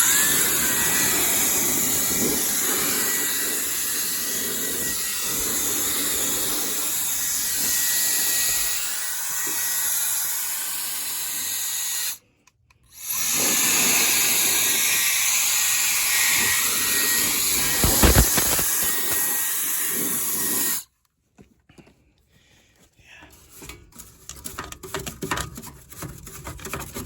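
Handheld cordless blower running at full speed with a steady rush of air and a faint high motor whine, blowing dust out of the furnace. It runs for about twelve seconds, cuts out briefly, runs again for about eight seconds and stops, followed by light handling clicks.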